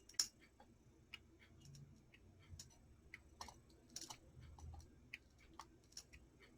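Faint, irregular clicks and taps of small clock parts being handled and fitted together, with one sharper click just after the start.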